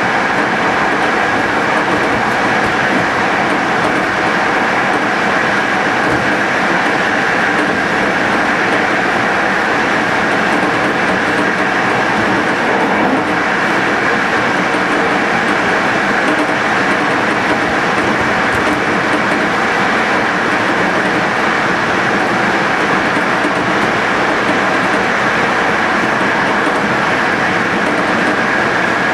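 Passenger train running steadily at speed along the rails, heard on board: an even, loud rushing rumble of wheels and rails with a steady higher ring in it.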